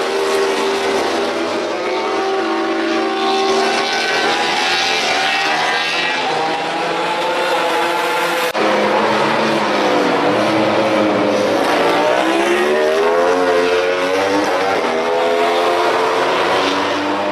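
MotoGP racing motorcycle engines running hard at high revs, the pitch dropping and climbing again as they shift gears. The sound changes abruptly about eight and a half seconds in.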